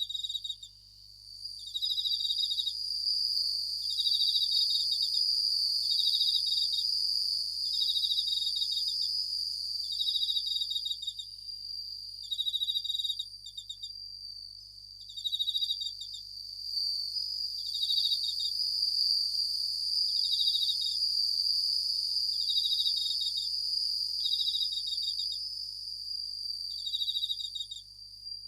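Japanese bell crickets (suzumushi) chirping: a steady high ringing trill under repeated short, pulsed chirps that come every second or two.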